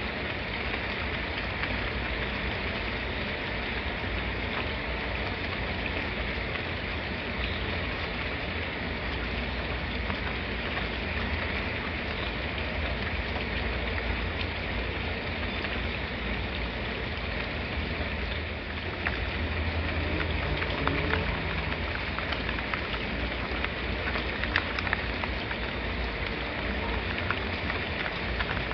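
Steady rain falling, an even hiss with scattered sharper drop ticks. It grows a little louder about two-thirds of the way through.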